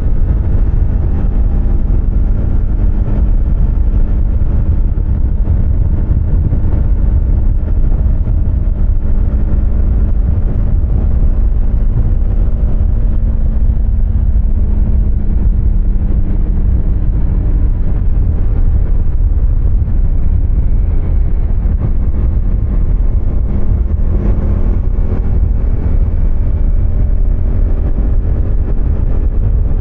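2024 Husqvarna Svartpilen 250's single-cylinder engine running at fairly steady revs, with a strong low rumble of wind and road noise. The engine note eases down around the middle and picks up again about five seconds from the end.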